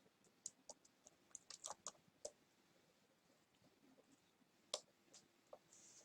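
Faint, irregular small clicks and ticks over near silence, a cluster in the first two seconds and a sharper single click near the end.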